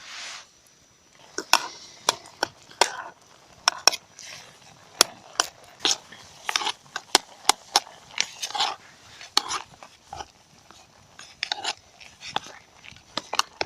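A spoon stirring pasta in a camp cooking pot, with irregular clinks and knocks of metal on metal and short scraping sounds.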